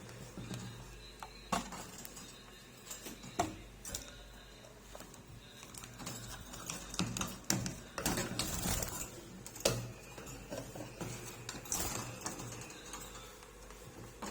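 Scattered light clicks and knocks, with a short rustling stretch about eight seconds in: small feed cups being set into the birds' cages.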